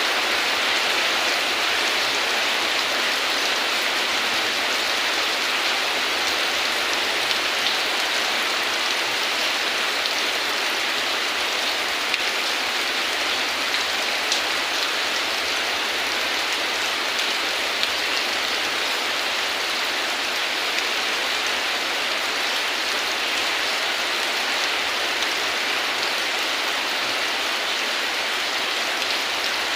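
Steady heavy rain falling, a dense even patter on a surface, with a few louder single drops standing out now and then.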